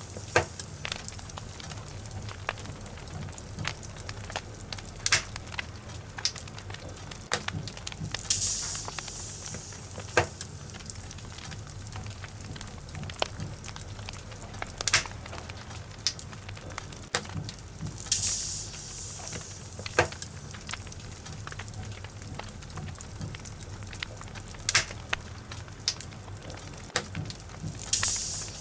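Wood logs burning in a fireplace: a steady low rumble with scattered sharp crackles and pops, and a brief hissing flare about every ten seconds.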